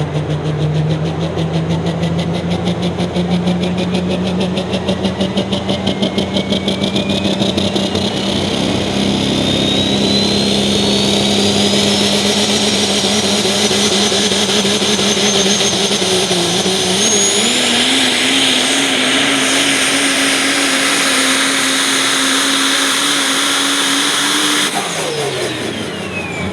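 Super stock diesel pickup truck's engine at full power pulling the sled, with a high whine that climbs steadily in pitch for most of the run. The engine note steps up about two-thirds of the way in, then drops off sharply near the end as the driver lets off.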